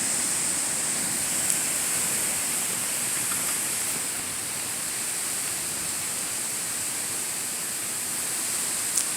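Steady hiss of storm rain and wind, with two short clicks, one about a second and a half in and one near the end.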